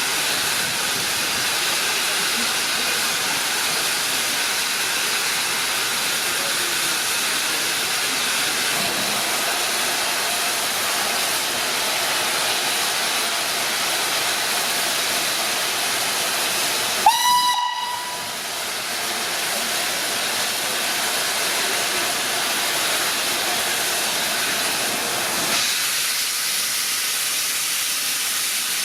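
Steam locomotive hissing steady steam, with one short whistle blast about two thirds of the way through.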